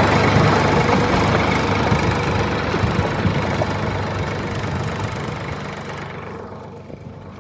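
Tractor engine running steadily, fading out gradually over several seconds.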